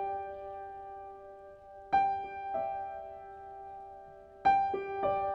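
Background music: slow, gentle piano, single notes and chords struck about every two and a half seconds and left to ring and fade.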